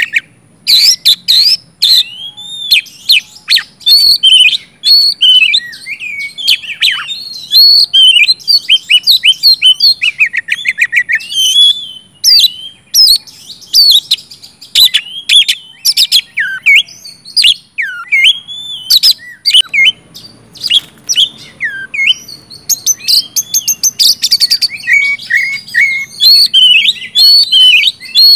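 Oriental magpie-robin (kacer) singing loudly without pause: a varied, unbroken stream of whistled phrases, fast trills and sharp clicking notes.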